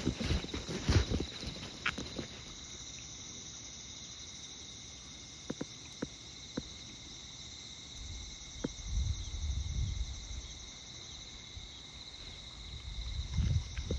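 Insects chirring steadily in a high, finely pulsing drone, with walking footsteps at the start and again near the end. A few sharp ticks fall in the middle, and a low rumble swells and fades just past halfway.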